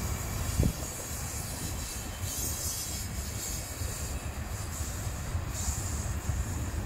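Tank cars of a BNSF ethanol unit train rolling past: a steady low rumble of wheels on rail, with one sharp knock about half a second in. A high hiss swells twice.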